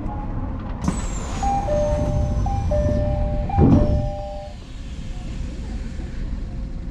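Commuter electric train running on the rails, with a high falling whine starting about a second in. Two steady warning tones alternate for about three seconds, with a loud rushing burst partway through.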